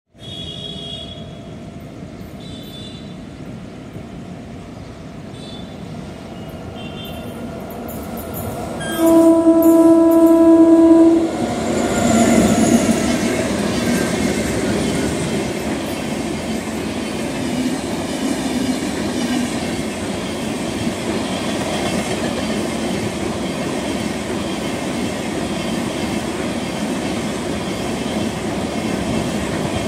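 Indian Railways passenger train with LHB coaches approaching and passing close by: one steady horn blast of about two seconds, some nine seconds in, then the continuous rumble and clickety-clack of the coaches' wheels going by.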